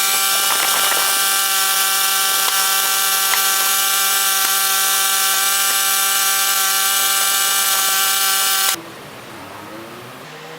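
Gasoline-engine high-pressure washer running at a steady speed, a constant hum under a strong spray hiss, which cuts off abruptly near the end, leaving a much quieter background.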